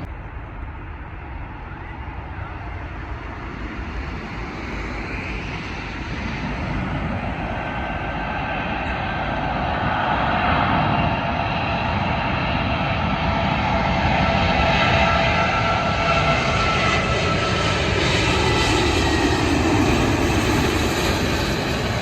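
Airbus A380 airliner's four turbofan engines passing close by. The rushing noise grows louder over the first ten seconds and then holds, with several steady whining tones on top.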